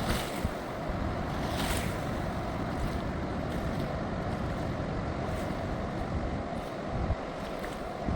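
Red Deer River in flood after torrential rains, fast water rushing steadily, with wind buffeting the microphone.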